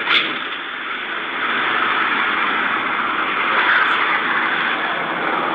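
Steady running noise of a car on the road, with a brief click just after the start.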